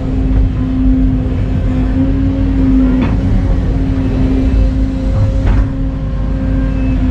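Excavator's diesel engine running steadily with a constant whine over a heavy low rumble. Two sharp clanks, about three seconds in and again about two and a half seconds later.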